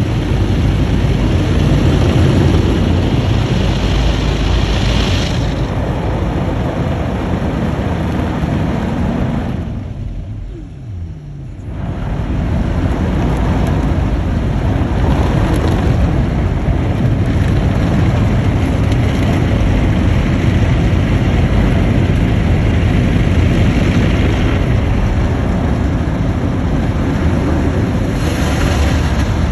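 Automatic car wash machinery running: a loud, steady roar of spray and blowers. About ten seconds in it dips briefly, with a low falling whine, before the roar picks up again.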